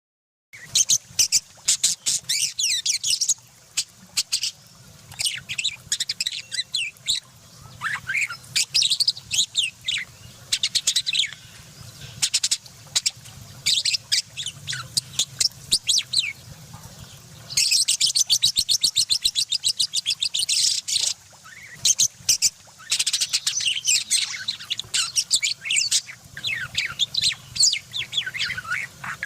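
Lovebirds chattering: runs of rapid, high-pitched chirps and twitters in bursts of a few seconds, with short pauses between.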